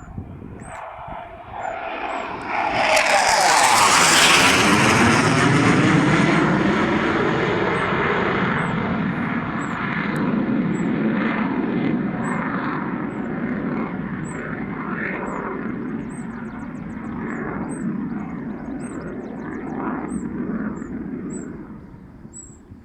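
Panavia Tornado GR4's twin RB199 turbofans as the jet passes low: a sharp whistle builds over the first few seconds and peaks about four seconds in. A swirling sweep follows as it goes by, then a rumble that slowly fades away.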